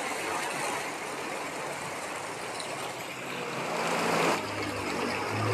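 Steady hiss of heavy rain and flowing floodwater, with a motor vehicle's engine coming in about three seconds in and growing louder as it nears. A brief surge of noise just past four seconds.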